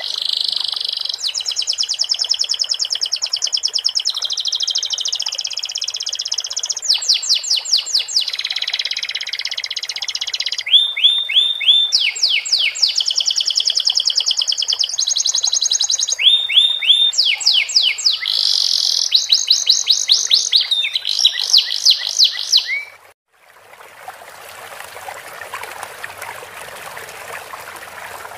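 Domestic canary singing fast trills and quickly repeated chirp phrases, a canary schooled in sikatan londo (flycatcher) song. Near the end the song cuts off suddenly and a steady sound of running, trickling water begins.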